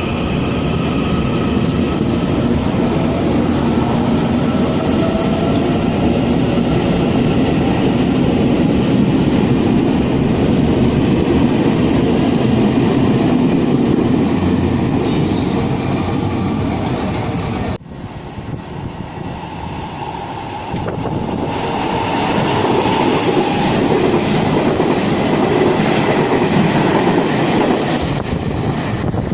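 Taiwan Railways trains passing at speed, their wheels rumbling and clattering over the rail joints. About two thirds through the sound drops off abruptly and a second passing train builds up.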